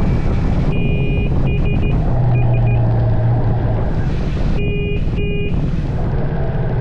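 Triumph Speed 400's single-cylinder engine running steadily under way. A horn sounds a string of short beeps in the first three seconds and two more about five seconds in.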